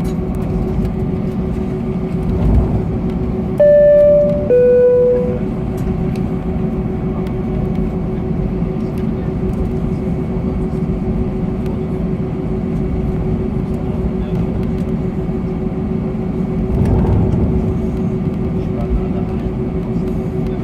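Airbus A321 cabin noise: a steady rumble and hum of the engines and air conditioning with a constant tone. About four seconds in, a two-note cabin chime sounds, high then lower.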